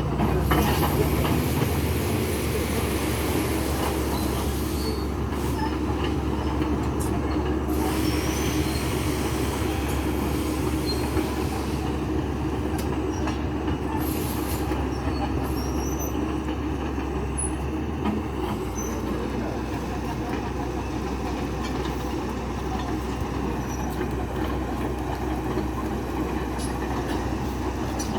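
Heavy machinery running steadily with a continuous engine rumble and scattered faint, high metallic squeaks.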